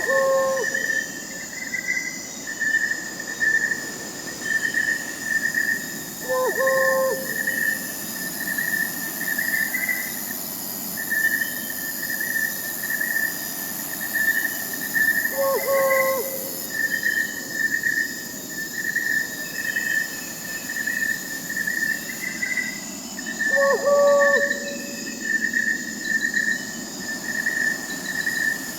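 Crickets chirping in a steady, pulsing trill, with an owl's short hoot repeating about four times, roughly every eight seconds.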